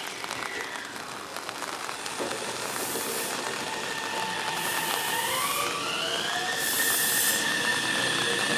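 Meitetsu electric train pulling out, its inverter motors whining in a rising pitch that then levels off, growing louder, with three short hisses.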